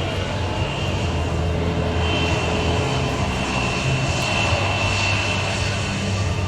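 Military aircraft engines running steadily, a loud continuous drone with a high steady whine over it that grows a little stronger partway through.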